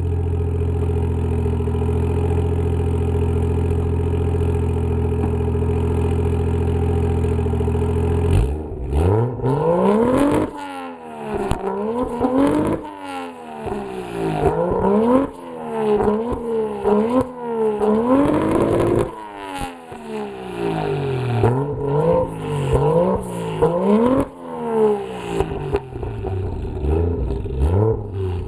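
Toyota 1JZ-GTE VVTi turbocharged inline-six in a Supra MK3, breathing through a 3-inch exhaust with a JASMA muffler, idling steadily in an underground garage. About eight seconds in it starts being blipped: a long string of quick revs that climb and drop sharply, the lightweight flywheel letting the revs rise and fall fast.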